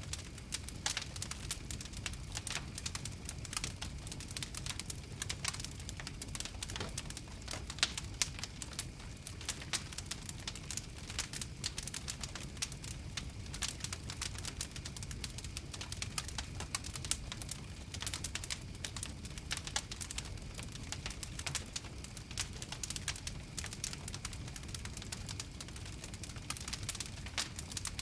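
Fire crackling, with many small irregular pops and snaps over a low, steady rumble.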